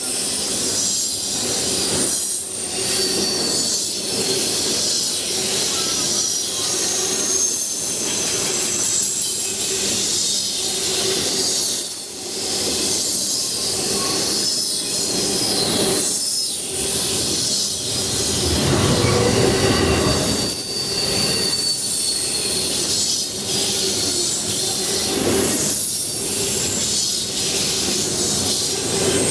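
Train cars rolling past on the Norfolk Southern line, wheels squealing in thin high tones over a steady rumble, with regular clacks of wheels over rail joints about once a second. Partway through, the rumble briefly grows louder and deeper.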